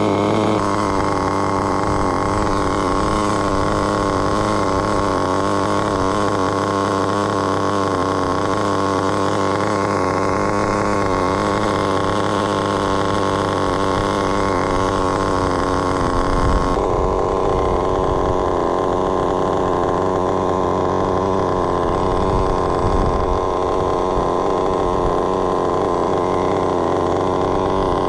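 Kyosho KE21SP two-stroke nitro engine in an RC car running steadily at a fairly even speed, its tone changing slightly about two-thirds of the way through.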